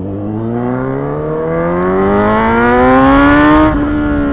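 Motorcycle engine accelerating hard, its pitch climbing steadily for about three and a half seconds, then dropping suddenly near the end and easing off.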